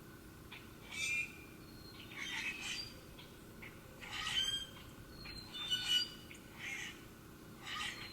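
Birds calling: short calls repeated roughly once a second, with a few thin high whistles between them.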